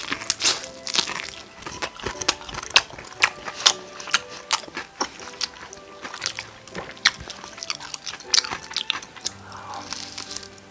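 Crispy fried chicken being bitten and chewed close to the microphone: repeated sharp crunches and crackles throughout, over quiet background music.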